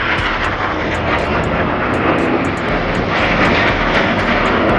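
Red Arrows BAE Hawk jets passing overhead at an airshow display: a loud, steady rushing jet noise, growing slightly louder in the second half.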